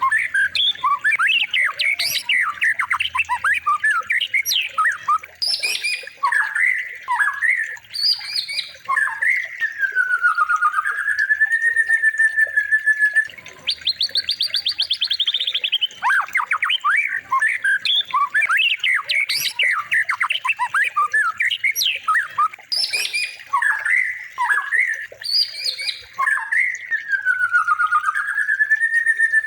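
Songbird song from a masteran recording made for training white-rumped shamas: fast varied chirps and twitters, a quick rattling trill, and a long whistle that dips and rises again. The same run of phrases comes round again about halfway through, as a looped recording does.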